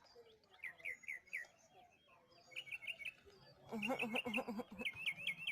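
Birds chirping: series of short, high, quick chirps, joined about four seconds in by a run of quicker, lower calls.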